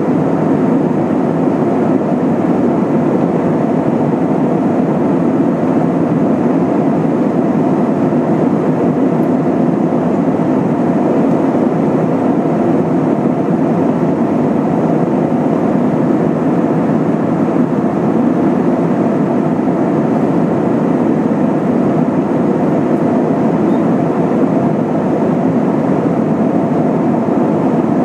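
Steady engine and airflow noise of an Airbus A320-232 with IAE V2500 engines, heard inside the passenger cabin: an even, low rumble with no change in pitch or level.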